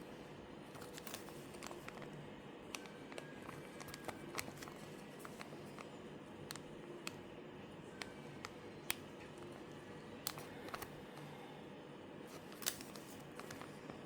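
Scattered small clicks and taps, a dozen or so at irregular times, the sharpest about nine seconds in and near the end, over a faint steady hum. These are handling noises of small objects being moved.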